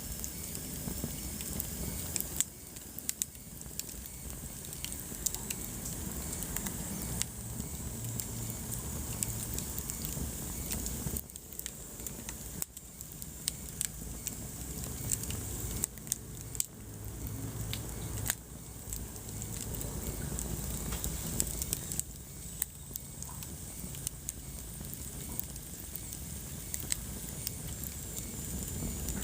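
Wood fire crackling in a fireplace: frequent, irregular sharp pops and snaps over the low, steady sound of the burning logs.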